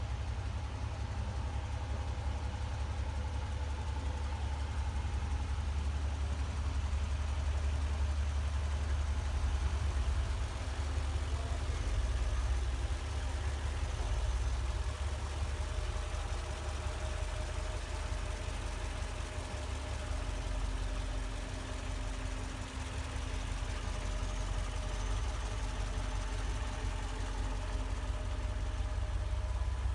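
Mercedes SL55 AMG's supercharged 5.4-litre V8 idling steadily through a new stainless-steel exhaust, a deep, even rumble.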